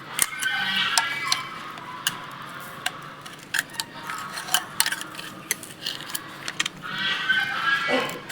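Light metallic clicks and taps of hand tools and feeler gauges working the valve adjusters on a Ford 5000 tractor engine during a valve-clearance adjustment. A high, wavering pitched sound rises over them twice, about a second in and near the end.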